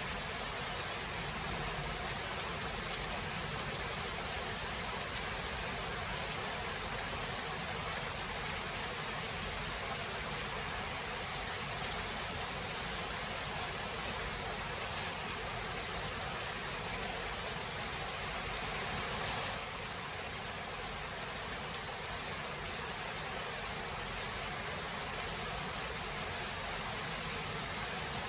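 Steady rain, an even hiss with a few faint drop ticks. It gets slightly quieter about two-thirds of the way through.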